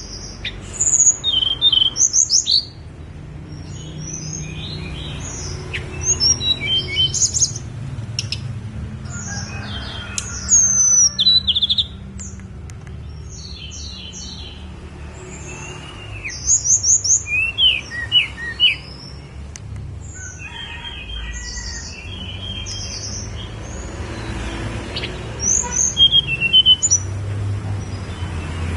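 A Tledekan Gunung songbird singing in short bursts of quick, high, sliding whistled notes, a phrase every four to six seconds, over a steady low hum.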